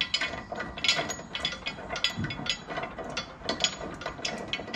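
Ratchet wrench clicking in quick runs as it turns a lawn mower blade bolt, with light metal clinks from the blade and hardware.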